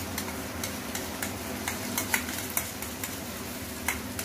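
Garlic, ginger and black-pepper paste frying in hot mustard oil with onions in a kadai, sizzling steadily, with a scattering of sharp clicks as a metal spoon scrapes the paste out of a bowl into the pan.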